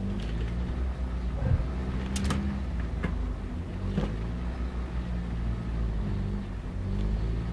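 A vehicle engine running steadily, with a few sharp clicks over it, the loudest about two seconds in.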